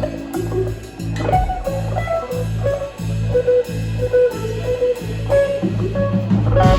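Live band playing: a guitar melody over an evenly pulsing bass line and drums.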